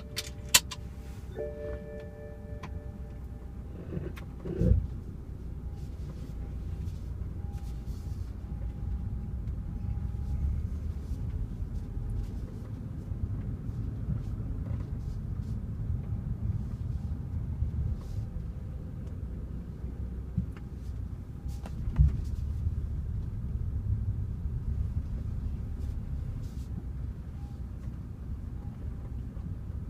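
BMW car running, with a steady low rumble throughout. Two chime tones sound near the start, a thud comes about four and a half seconds in and another about twenty-two seconds in, and a faint on-and-off whine comes and goes.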